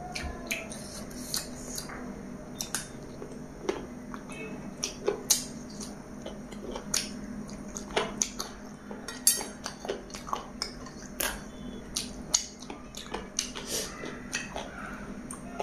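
Close-miked chewing of a piece of chicken curry eaten by hand, with wet lip smacks and mouth clicks coming irregularly, several a second at times.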